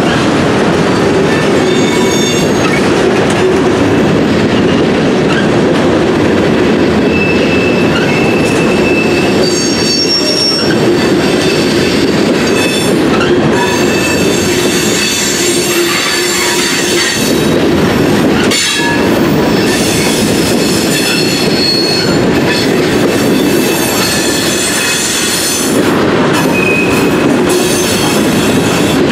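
Freight train cars rolling past at close range: a steady loud rumble of steel wheels on the rails, with short high-pitched wheel squeals coming and going.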